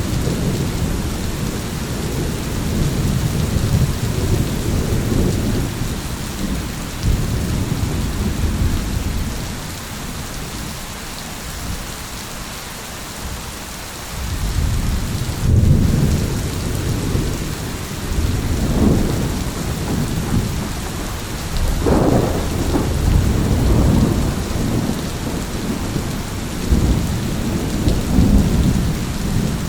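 Thunderstorm: steady rain hissing, with rolling thunder rumbling low underneath. The rumble eases off briefly about halfway through, then builds again with a sharper crack of thunder.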